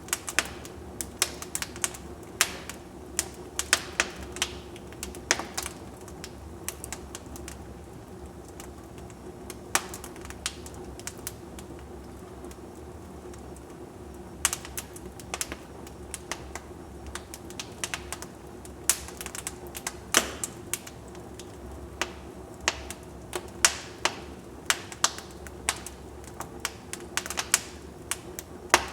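Wood fire in a fireplace crackling: irregular sharp pops and snaps, some in quick clusters, over a low steady rumble.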